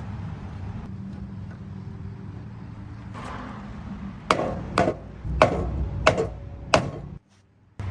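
Five sharp knocks about half a second apart over the steady low hum of an idling car engine; the sound cuts out abruptly for a moment near the end.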